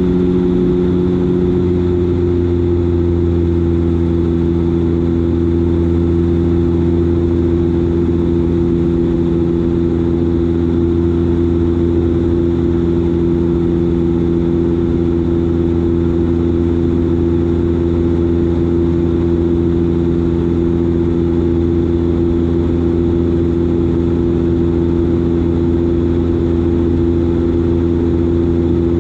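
Turboprop engine and six-bladed propeller of a Dash 8 Q400 in flight, giving a loud, steady droning hum. The hum's pitch dips slightly about a second and a half in, then holds steady.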